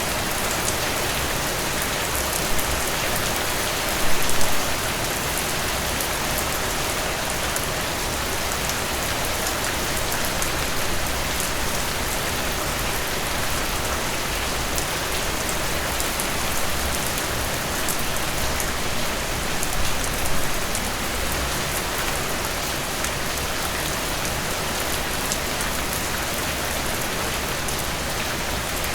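Heavy rain falling steadily, with a few brief louder swells about four seconds in and again about twenty seconds in.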